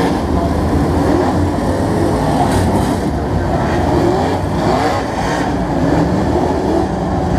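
Several stock car engines running together at pace-lap speed as the field circles behind the pace truck before the start: a loud, steady drone, with individual engines rising and falling in pitch as they pass.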